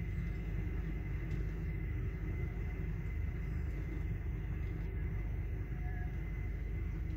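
Steady low rumble of a sleeper train rolling slowly into a station, heard from inside the compartment, with a faint steady high whine.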